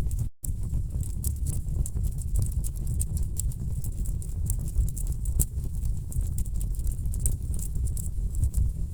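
Wood fire crackling in a fireplace: a dense, irregular run of sharp pops and snaps over a steady low rumble of burning logs. The sound cuts out for an instant about a third of a second in, then carries on.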